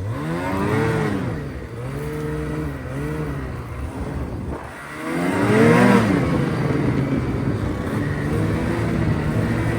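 Off-road vehicle engine revving up and easing off several times, with its hardest climb in revs about five seconds in, then running more steadily under load.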